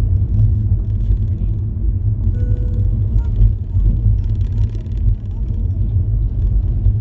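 Steady low rumble of a car driving, heard from inside the cabin, with a brief short tone about two and a half seconds in.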